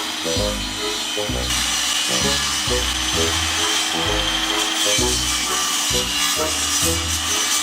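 Wood being cut by hand with a saw, a steady rasping hiss, with music playing in the background.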